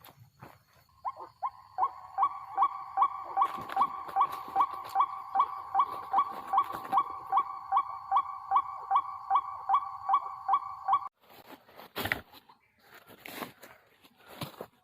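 White-breasted waterhen calls: a monotonous run of evenly repeated croaking notes, about two and a half a second, cutting off suddenly about three-quarters of the way through. A few sharp knocks follow.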